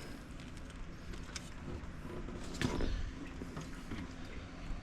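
Faint mechanical clicks and creaks from a small motorcycle's controls being handled as it is readied to start, with a soft thump about two and a half seconds in. The engine is not running yet.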